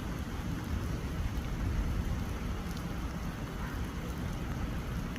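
Rain falling steadily, with a low rumble underneath.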